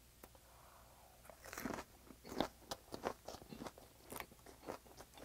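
Close-miked chewing of a raw onion wrap filled with stir-fried squid and green chili: a quiet first second or so, then a run of crisp crunches, several a second.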